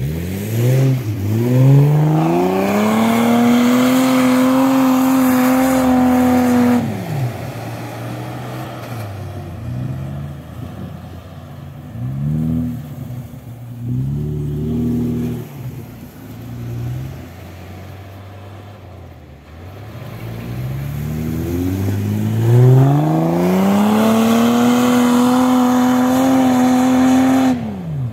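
Off-road 4x4's engine revved hard twice, each time climbing fast, held high for several seconds and then dropping off sharply. Between the two, the throttle is blipped in four or five short revs.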